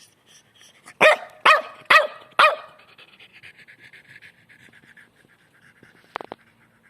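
French bulldog barking four times in quick succession, about half a second apart, then faint rapid panting. A short knock near the end.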